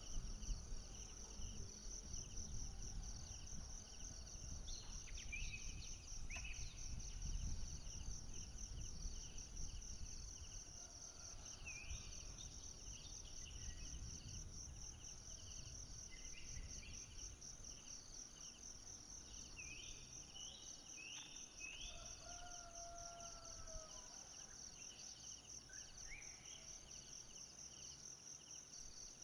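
Tropical forest ambience: a steady, fast-pulsing insect trill runs throughout, with short rising chirping calls scattered over it and a low rumble, louder in the first half.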